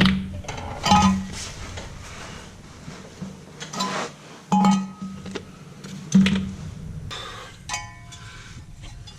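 Steel mulch-kit plates clanking against the mower deck and each other as they are handled and fitted for bolting: about five sharp metal knocks, each ringing briefly, then lighter ringing clinks near the end.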